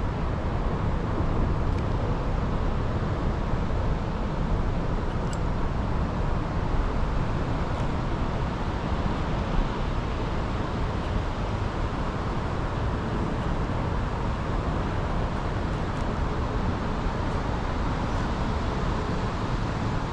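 Strong wind buffeting the microphone: a steady low rumble that stays even.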